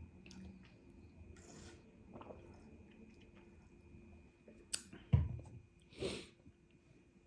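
Close-miked chewing and biting of food, with small wet mouth clicks. About five seconds in there is a sharp click followed by a heavier low thump, then a short burst of noise a second later.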